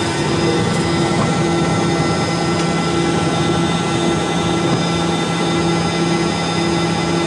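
Cabin noise of a Hawker 800 business jet with its Garrett TFE731 turbofan engines running: a loud, steady rush of noise with several steady whining and humming tones. One of the hums pulses on and off.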